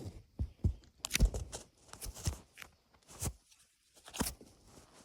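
Irregular rustling and crunching taps, a few quick ones per second, loudest just after a second in.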